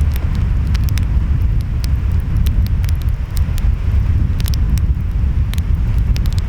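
Wood fire crackling, with frequent sharp pops and snaps, over a steady low rumble of ocean waves and wind.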